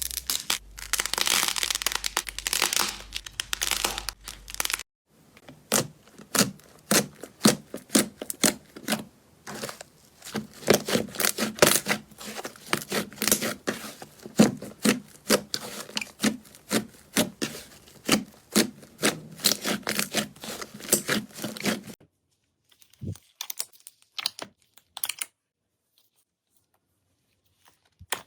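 Slime being pressed and squished by hand, giving rapid wet crackling and popping. A dense crackle for about five seconds, a cut, then a long run of sharp pops and crackles that stops about 22 seconds in, with only a few faint crackles after.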